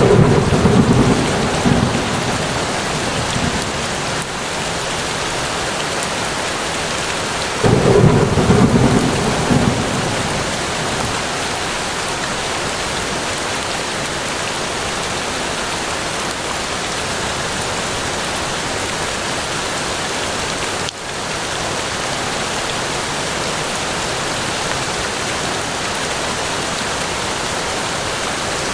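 Steady rain falling, with two low rolls of thunder, one at the start and one about eight seconds in, each dying away over a couple of seconds.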